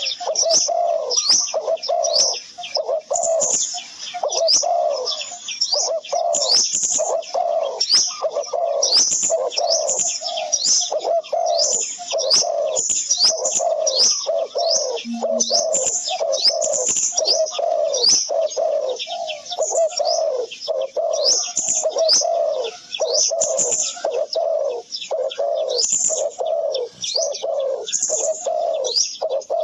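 Birds calling steadily and densely: a low note and a short high chirp repeat about twice a second, over and over.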